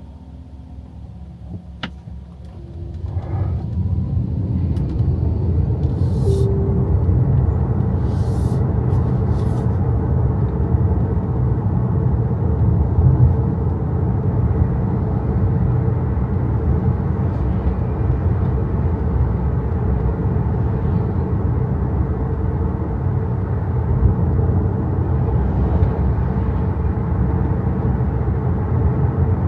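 Road and tyre noise inside the cabin of an XPENG G6 electric SUV on the move: a low, steady rumble that swells about three seconds in as the car gets up to speed, then holds steady.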